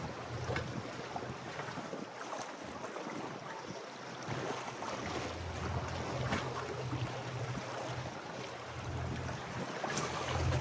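Wind buffeting the microphone with a low, uneven rumble, over the wash of waves and moving water.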